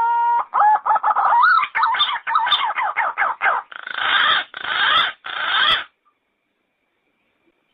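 Yellow-footed green pigeon singing. A long rising whistle ends just after the start and gives way to a run of quick warbling notes, then three harsher notes, and the song stops about two seconds before the end.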